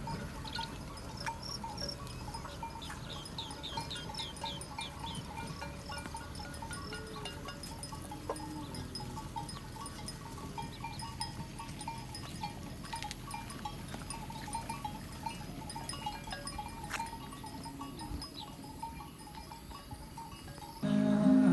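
Outdoor ambience with animal calls: a steady repeating short call throughout and a quick run of high chirps a few seconds in. Music comes in just before the end.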